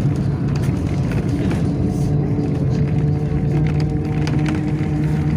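Inside the cabin of a Yutong ZK6118HGA city bus under way: a steady engine and drivetrain hum with road noise and light rattles.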